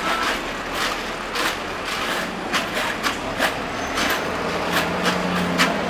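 Busy city street traffic noise, with a heavy vehicle's engine humming low from about four seconds in.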